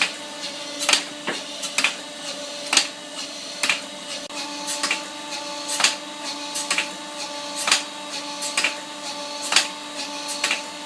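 Metal grinding machine running on a pair of pliers: a steady machine hum with a sharp click about once a second, in an even rhythm, and a higher tone joining about halfway through.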